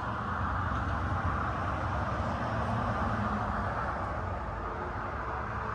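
Steady mechanical whir over a low hum, even throughout.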